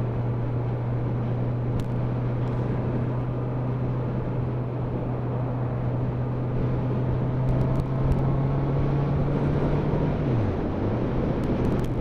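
Motorcycle engine running at a steady cruising speed, with road and wind noise over it; about ten seconds in the engine note dips briefly and picks back up.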